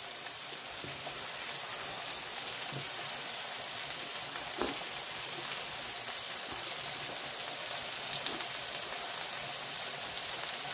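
Hamburger patties and buttered buns frying on an electric flat-top griddle: a steady sizzle.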